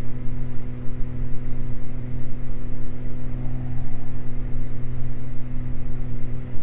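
Beechcraft G58 Baron's twin six-cylinder piston engines running steadily at climb power, heard from the cabin as a loud, even drone with several constant hums.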